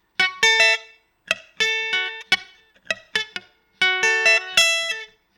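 Guitar played haltingly, the way a beginner plays: a choppy run of plucked notes, each cut off short, with uneven stops and restarts. It sounds awful on purpose.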